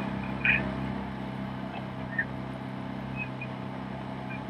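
Steady drone of a motor launch's engine running at constant speed, carrying along with the race. A few brief, faint high chirps sound over it, about half a second and two seconds in.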